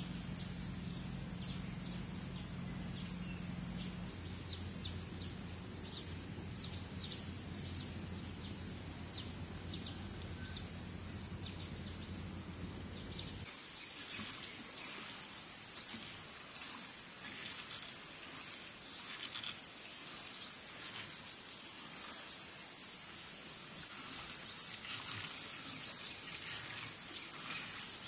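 Outdoor ambience of insects and birds: short high chirps throughout, and a steady high insect drone with many quick calls over the second half. A low steady hum lies underneath the first half and stops about halfway through.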